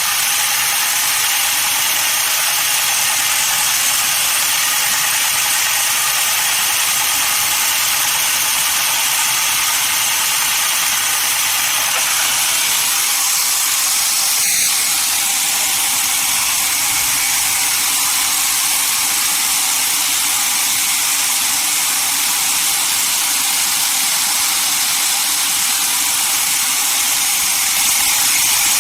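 Sawmill saw running steadily through a dense desert redwood log, a continuous high hiss with one brief click about halfway.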